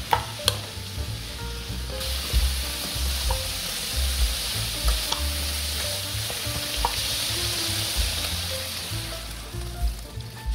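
Radish slices and dried pollack sizzling in perilla oil in a frying pan on high heat, stirred with a wooden spoon that clicks against the pan now and then. Near the end water is poured in and the sizzling thins out.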